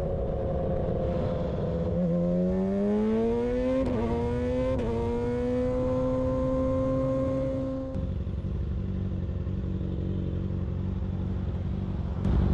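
Motorcycle engine pulling under acceleration, its note rising through two quick gear changes, then holding steady until the throttle closes about eight seconds in and it falls to a lower, steady running note.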